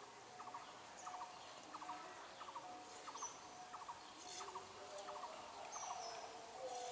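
Birds calling: a short call of three or four rapid notes repeated about every half second, with high whistled notes that drop in pitch three times.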